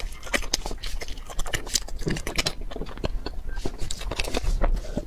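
Close-miked eating sounds: quick, wet chewing and mouth clicks, with sips from a glass near the end.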